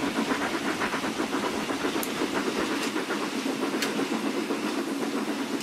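Sound-fitted model Battle of Britain class steam locomotive hauling tank wagons: rapid, rhythmic exhaust chuffing over a steady running hiss, with a few sharp clicks about two to four seconds in.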